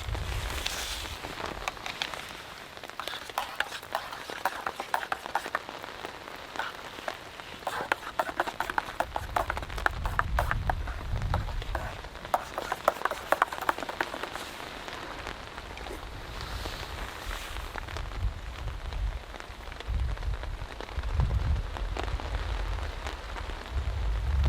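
Heavy rain falling on a tarp, a dense patter of individual drops ticking sharply over a steady wash of rain. A low rumble swells and fades twice.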